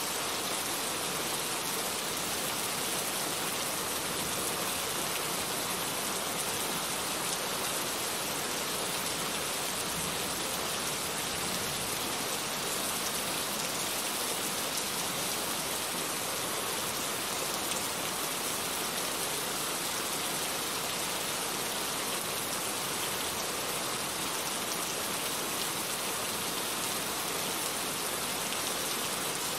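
Heavy rain falling steadily, an even hiss of drops hitting a surface with no breaks.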